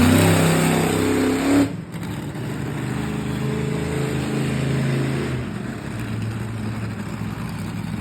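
Monster truck's 1,500-horsepower blown, fuel-injected alcohol engine running loud, then dropping abruptly to a lower, steady running note a little under two seconds in.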